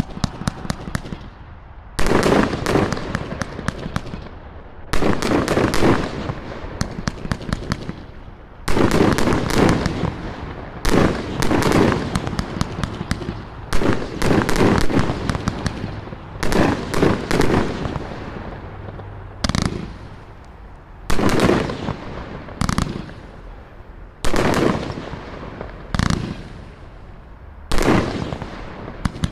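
A 58-shot 500 g Nun Ya 'Mind Flayer' compound firework cake firing. Volleys of shots launch and burst in rapid clusters of sharp pops and bangs, each cluster lasting a second or two and coming every couple of seconds.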